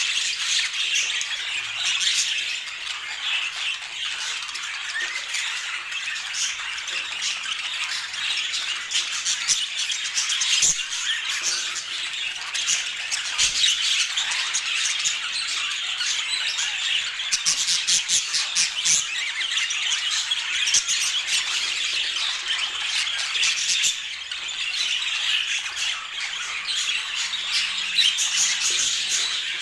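Budgerigars chattering continuously, many birds' chirps and warbles overlapping in a dense, unbroken flock chatter.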